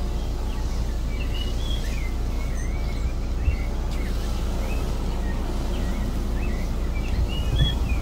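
Songbird singing: many short chirped and twittering notes, repeated over a steady low rumble.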